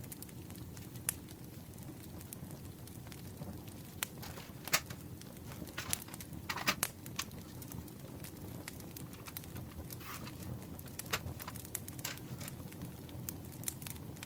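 Campfire crackling: a steady low hiss of burning with sharp pops scattered throughout. A brief rustle about six to seven seconds in.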